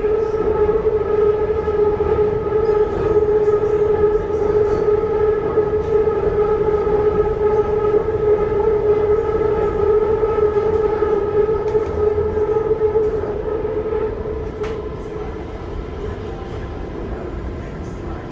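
BTS Skytrain elevated metro train running at a steady speed, a constant whine of its traction motors over the rumble of the running gear. It grows somewhat quieter about three-quarters of the way through.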